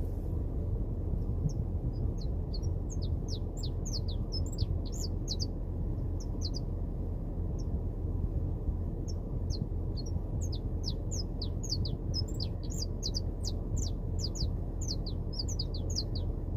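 Saffron finch singing: bursts of quick, sharp, high notes that slide downward, thinning out for a few seconds in the middle. A steady low rumble runs underneath.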